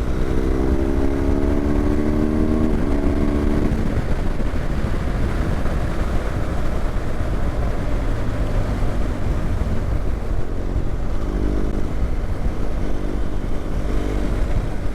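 BMW GS boxer-twin motorcycle engine under acceleration, its pitch climbing for about three seconds with a gear change near the three-second mark, then drowned by heavy wind rumble for several seconds before the engine note comes through again near the end.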